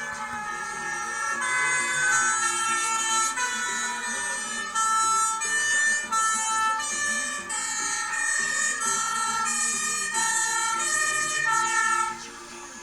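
A truck's musical multi-tone horn playing a tune of quick stepped notes at several different pitches. It stops sharply near the end.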